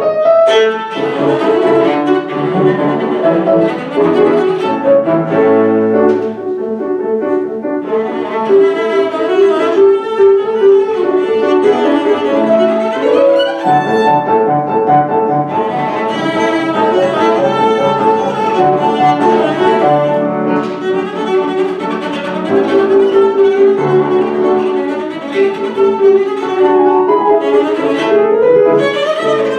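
Classical music: a bowed string instrument playing quick runs of notes with piano accompaniment.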